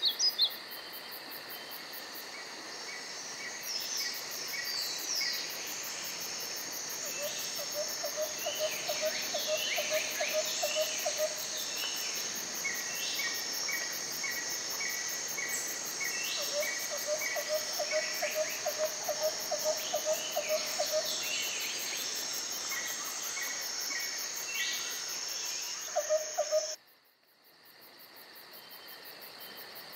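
Countryside ambience: a steady chorus of insects with assorted birds calling over it, including two runs of a rapid low trilling call. Near the end the sound drops out abruptly and then fades back in.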